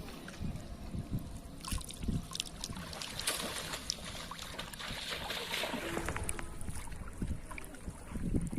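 Water splashing and trickling with repeated low knocks, strongest about two to six seconds in.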